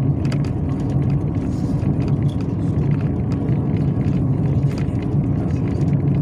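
Yutong ZK6118HGA city bus heard from inside the passenger cabin while driving: a steady engine and road rumble with faint scattered clicks and rattles.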